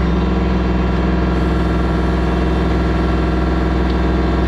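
LS MT232 compact tractor's 32-horsepower diesel engine running at a steady speed, with no rise or fall in pitch.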